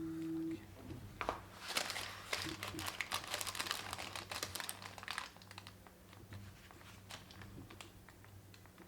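Crinkling and crumpling from handled material, dense from about one to five seconds in, then thinning to scattered small crackles, over a steady low hum.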